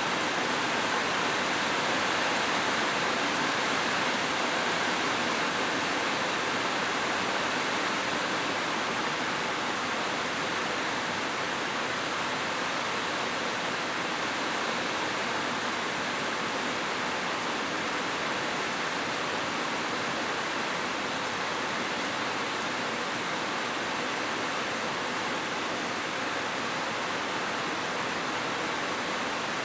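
Heavy rain falling steadily, an even hiss of drops with no single impacts standing out.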